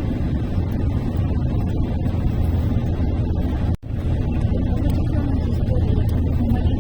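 Steady engine and road noise of a moving car heard from inside the cabin, a low even rumble. The sound drops out for an instant a little under four seconds in.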